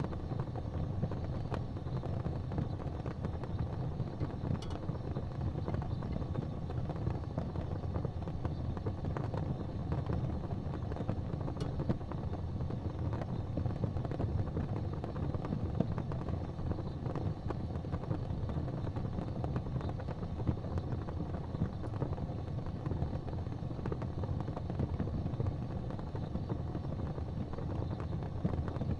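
Wood fire burning in a fireplace: a steady low rumble of flames with scattered faint crackles and a couple of sharper pops.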